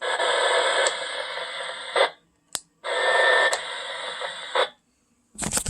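Two-metre amateur radio receiver hissing with static in two bursts of about two seconds each. The squelch opens and cuts off abruptly each time, and there is a brief beep in the second burst. The hiss is interference swamping the repeater's signal, which the operator puts down to a local RF jungle on the 2 m band.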